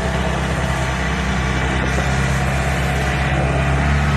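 Cummins-powered John Deere diesel pulling tractor's engine running hard and steadily, growing a little louder near the end.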